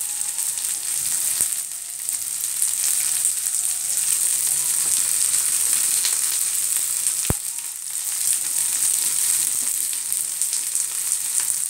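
Whole shell-on prawns frying in a little hot oil in a non-stick pan, sizzling with a steady hiss. There is one sharp click about seven seconds in.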